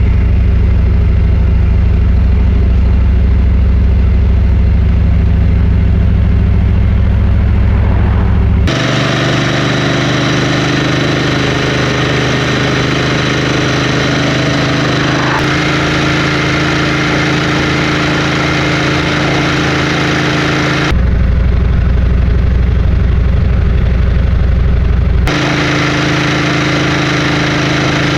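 Motorcycle engine running at a steady pace while riding, with road and wind noise. The sound changes abruptly several times, alternating between a deep low hum and a brighter, more windy sound, as the footage cuts between shots.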